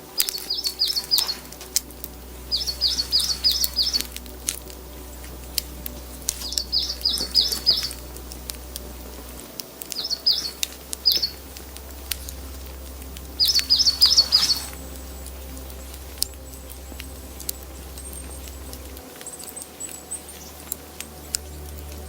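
A small songbird singing short phrases of quick, high, down-slurred notes, five phrases a few seconds apart, the last one near the middle. Scattered sharp ticks and pattering sound throughout.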